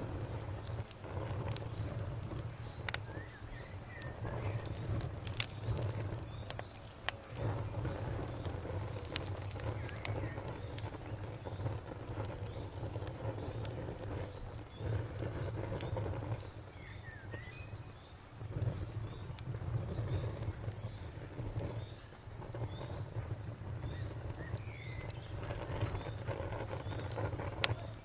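Wood fire crackling with scattered sharp pops over a low rumble that swells and dips. A cricket chirps steadily in a high, even rhythm, and a few short bird chirps come and go.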